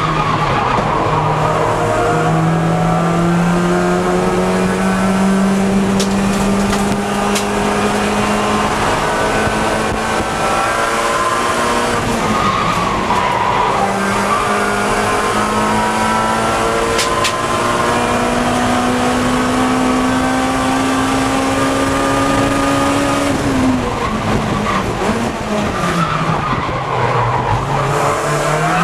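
Race-prepared Acura Integra Type R four-cylinder engine running hard at speed on track, its pitch climbing slowly for long stretches and dropping sharply about twelve seconds in and again about twenty-four seconds in.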